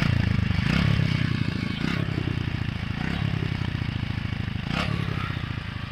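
TVS Apache RTR 160 4V single-cylinder engine running through its double-barrel silencer just after starting, loudest in the first second, then steady. The silencer's loose inner pipe has been welded, and the owner judges the exhaust now sounds like stock.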